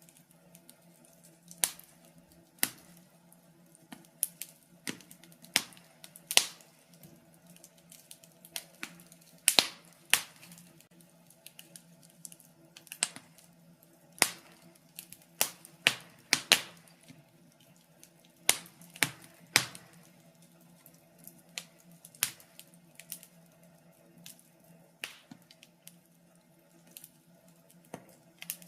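Fireplace fire crackling: irregular sharp pops and snaps, one to three a second, some much louder than others, over a faint steady low hum.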